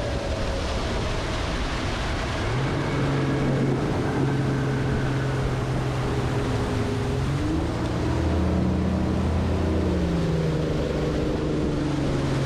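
Boat motor running steadily, its low hum shifting in pitch in steps several times, over a steady rush of wind and water.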